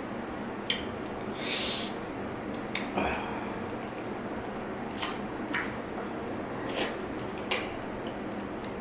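Close-miked eating sounds: a string of short wet mouth smacks and clicks while chewing, with one longer hissing burst about a second and a half in, over a steady background hiss.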